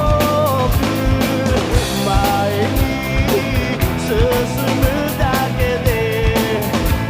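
Drum kit played along to a recorded rock song with a male lead vocal: steady drum hits and cymbal strokes under the sung melody.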